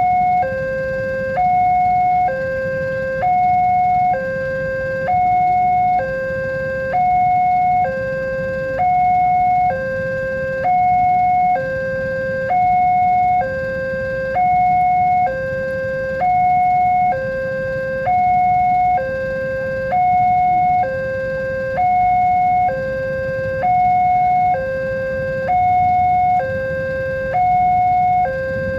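Electronic two-tone warning alarm of a railway level crossing, switching steadily between a higher and a lower tone about once a second, sounding while the crossing is closed for an approaching train. A low rumble runs underneath.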